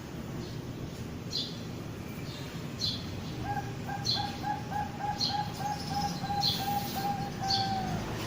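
Bangkok-bred perkutut (zebra dove) cooing: a quick run of about a dozen short, even coos, about three a second, starting about three and a half seconds in. Short high chirps repeat about every second and a half.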